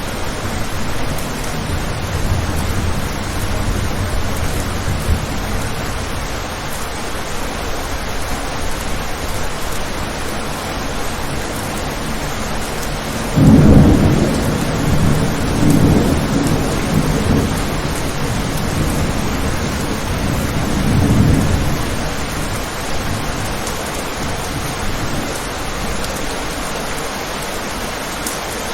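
Steady rain with thunder: a low rumble in the first few seconds, then a sudden loud clap about halfway through that rolls on in further swells before fading back to the rain.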